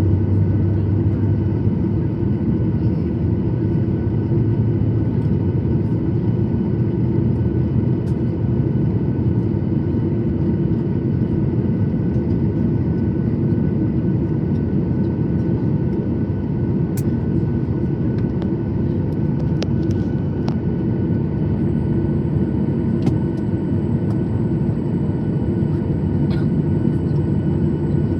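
Boeing 737-800's CFM56 jet engines running steadily, heard from inside the cabin as a loud rumble with a constant whine over it. A few faint ticks come in the second half.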